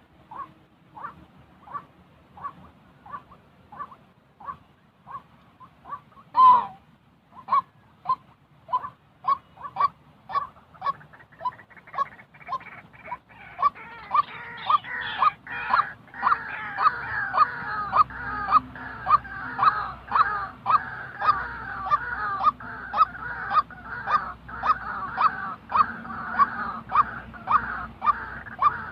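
White-breasted waterhen calling: a monotonous run of short notes, about two a second. About six seconds in there is one louder gliding call, and from about halfway the calling grows louder and fuller, with a busier croaking chorus over the same steady beat.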